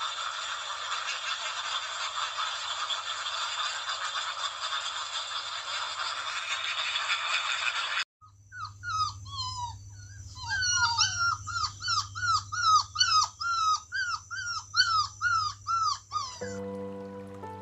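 Dog whimpering and yelping in a run of short cries that fall in pitch, about two a second, in the second half. Before them comes a dense, steady hiss of high sound that cuts off suddenly about halfway through. Music comes in near the end.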